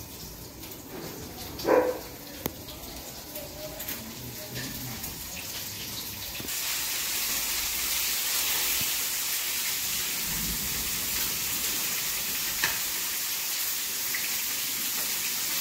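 Fish frying in a pan: a steady sizzling hiss that grows louder about six seconds in.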